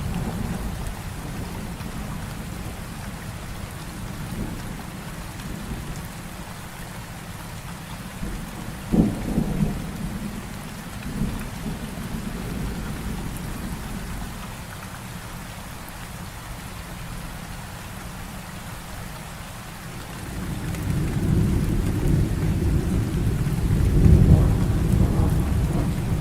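Heavy rain falling steadily through a thunderstorm. About nine seconds in, a sharp crack of thunder, then a couple of smaller ones; near the end, a long low rolling rumble of thunder builds.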